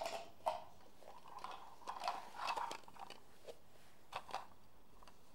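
Bottle caps clicking and tapping as they are picked up and handled, a scattering of short sharp clicks spread irregularly across the few seconds.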